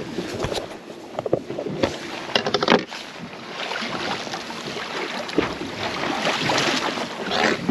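Knocks and rattles on a small fishing boat's deck, a quick run of them about two and a half seconds in, as a large conger eel is handled. Then a rushing noise that builds toward the end.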